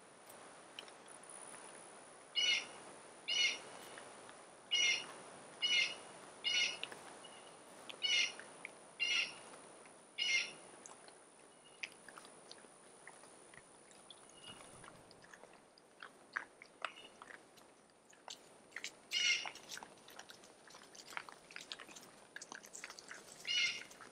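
A bird calling: short, high calls repeated about once a second for several seconds, then a few more near the end. Faint crunching and clicking of feral hogs chewing feed corn runs underneath.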